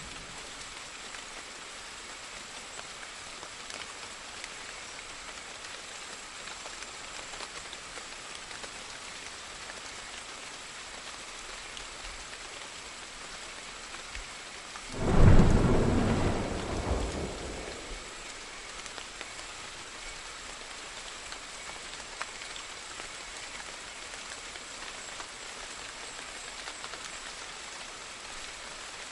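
Steady rain falling, with one clap of thunder about halfway through that starts suddenly, rumbles deep and fades over two or three seconds.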